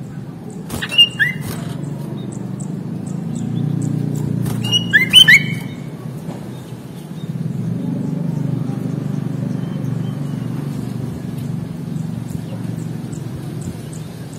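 Sooty-headed bulbul (kutilang) giving two short, loud bursts of whistled song, about a second in and again about five seconds in. A steady low rumble runs underneath, with faint rapid high ticks.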